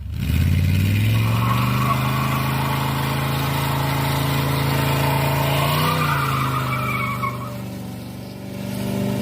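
1965 Chevy C20 pickup truck's engine revving up and holding steady high revs over a steady hiss; the revs sag and then climb again near the end.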